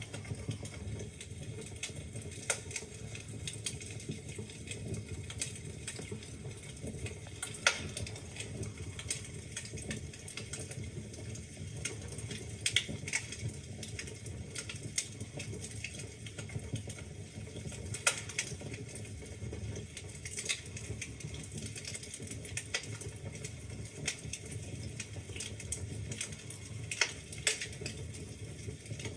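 Wood fire burning in a fireplace: logs crackling with irregular sharp pops over a low steady rumble of flames.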